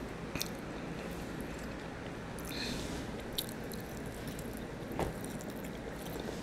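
Close-up chewing of a mouthful of barbecue rib meat, with a few sharp clicks of a metal fork on the plate.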